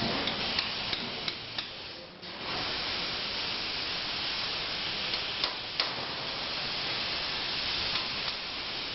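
CNC plasma cutter torch cutting metal: a steady hiss that drops away briefly about two seconds in and then resumes, with a few sharp clicks.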